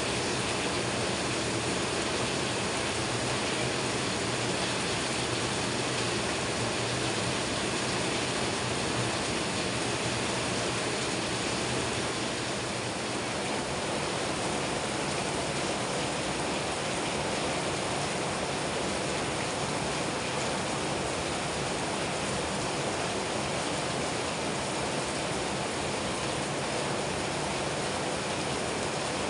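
Steady rain falling on garden plants, palm leaves and wet ground, an even hiss throughout.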